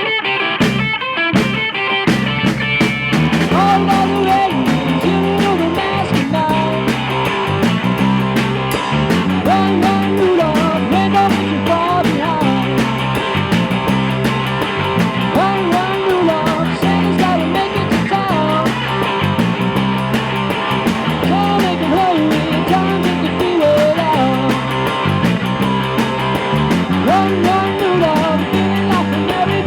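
Rock trio of drum kit, electric bass and electric guitar playing an upbeat rock-and-roll number. A few drum hits open it, the full band comes in about two seconds in, and bending lead guitar lines run over a steady repeating bass pattern.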